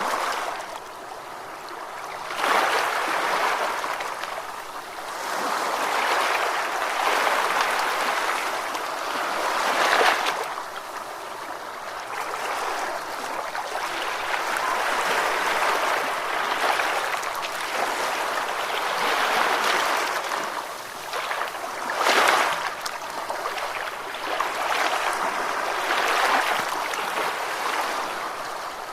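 Ocean waves washing in, the rushing noise swelling and fading every few seconds, with a sharper surge about 22 seconds in.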